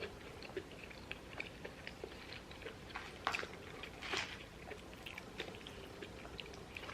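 Faint, close-up chewing of food, with many small mouth clicks. There are two louder eating sounds about three and four seconds in.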